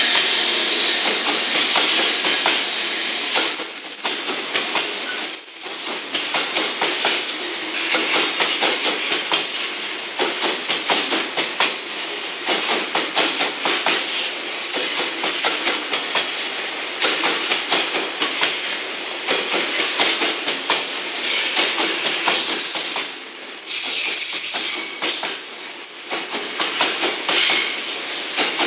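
Wheels of a JR Freight container train's flatcars clattering over rail joints as the wagons roll past: a fast, steady run of sharp clacks.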